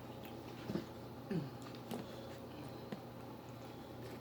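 Quiet eating sounds of chicken wings being chewed: a few soft wet smacks and clicks, scattered, over a faint steady low hum.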